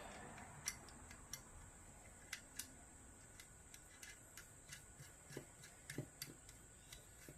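Near silence: faint, light ticks about two or three a second, over a thin steady high-pitched whine.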